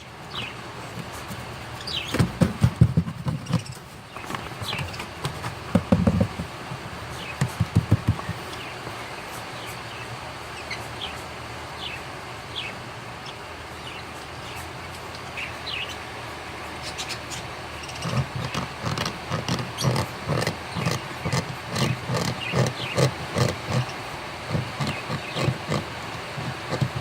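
Cockatiel chicks begging: spells of rapid, rasping pulses with short high chirps over a steady hiss, heaviest near the start and again through the last third.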